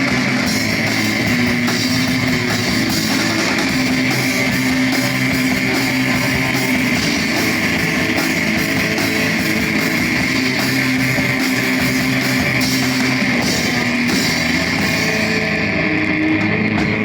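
Loud live noise-rock band playing: electric guitar and drum kit in a dense, sustained wall of sound.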